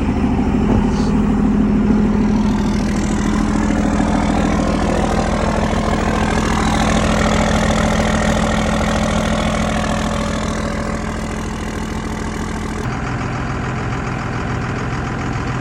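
24-valve Cummins 5.9 L inline-six turbo diesel idling steadily just after a cold start at 17°F. The tone of the idle changes slightly about thirteen seconds in.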